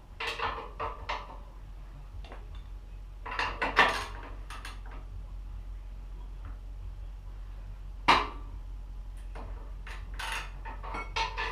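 Metal tools and parts clinking and knocking as they are handled, irregular, with sharper knocks about four and eight seconds in, over a steady low hum.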